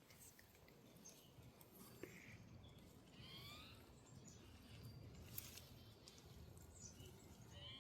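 Faint ambience with a low steady background rumble and a few short rising bird chirps, one about three seconds in and another near the end.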